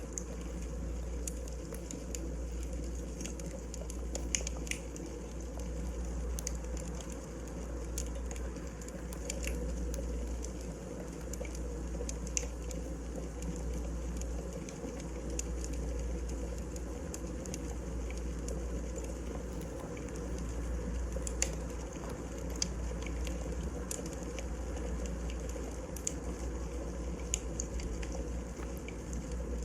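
Wood fire burning in a fireplace: a steady low rumble with scattered, irregular sharp crackles and pops of the burning logs.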